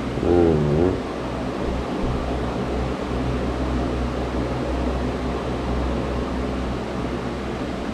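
Steady low hum with an even background hiss. A short voiced hum, bending in pitch, comes about half a second in.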